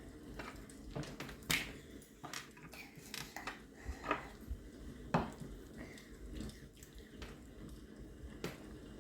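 Scattered light clicks and taps of dishes and cutlery while eating at a table, with the sharpest taps about one and a half seconds and five seconds in.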